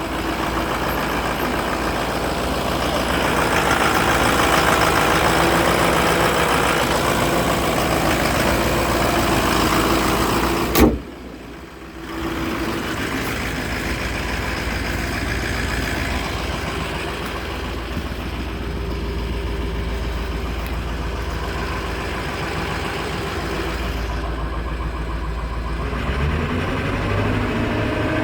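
Ford F-450 truck engine running steadily. About eleven seconds in there is a sharp click and the sound drops away for about a second before the engine sound returns; near the end the pitch rises briefly.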